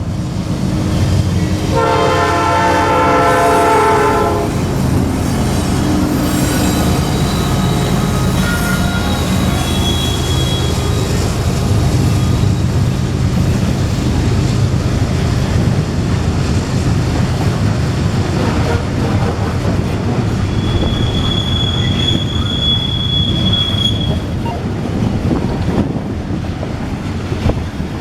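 Norfolk Southern coal train passing close by with a steady rumble, its locomotive horn sounding a couple of seconds in for about two seconds. About two-thirds of the way through, a high wheel squeal rings for a few seconds over the rumble of the cars.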